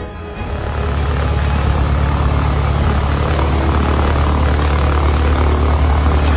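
Aircraft engine running steadily at high power, with a strong low drone. It comes in and builds up within the first second.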